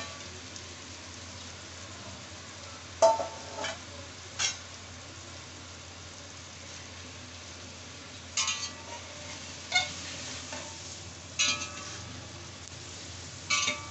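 Chicken pieces sizzling in oil with fried onions and tomatoes in a large aluminium pot, stirred with a metal spatula. The spatula knocks and scrapes against the pot about seven times, from about three seconds in.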